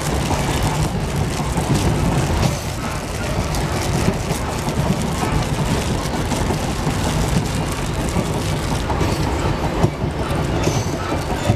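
Moving train heard from inside a passenger compartment: a steady, loud rumble with irregular clatter throughout.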